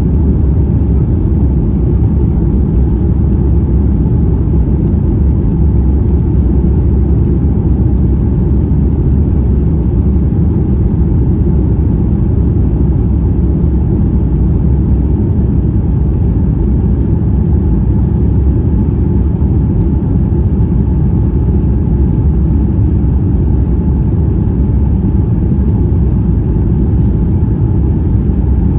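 Steady low rumble of an Airbus A350-900's Rolls-Royce Trent XWB engines and airflow heard inside the passenger cabin, even and unchanging throughout.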